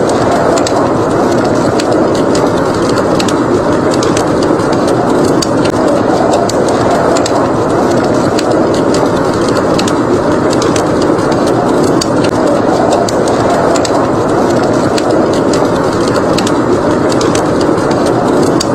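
Steady blizzard wind noise with frequent small, sharp crackles of a burning wood fire over it.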